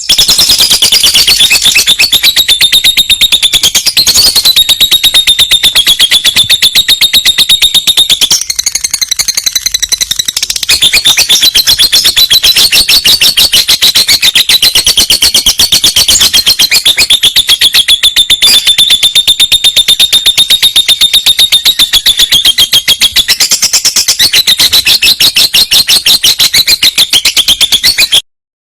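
Lovebird singing one long unbroken trill of rapid, high, piercing chirps, its pitch wavering slightly, then cutting off suddenly near the end.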